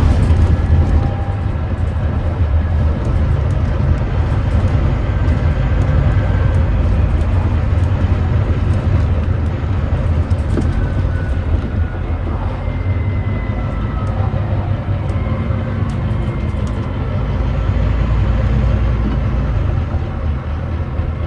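Volvo D9B 9.3-litre diesel engine of a Volvo B9TL double-decker bus running, heard on board as a loud, steady low drone. Faint whines rise and fall over it, with light rattles throughout.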